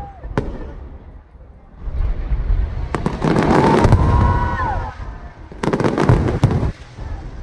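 Aerial fireworks display: bangs and crackling bursts going off in loud volleys, one clustered about three seconds in and another around six seconds, over a low rumble of booms.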